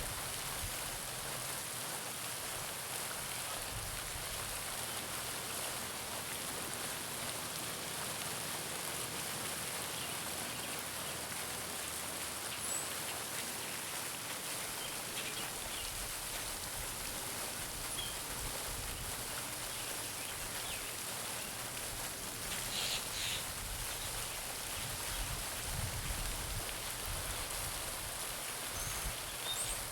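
Garden pond fountain splashing steadily into the water, with a few faint, scattered bird chirps over it.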